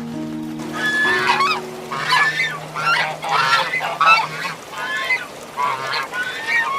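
Farm fowl calling, a run of about eight short, rough calls in quick succession, over background music with steady low held notes that fade out partway through.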